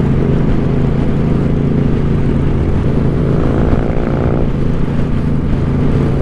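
2014 Suzuki Boulevard C50's V-twin engine, fitted with a Cobra exhaust, running steadily while the motorcycle is ridden, with rushing noise from riding. A higher rising whine joins briefly about three seconds in and fades a second later.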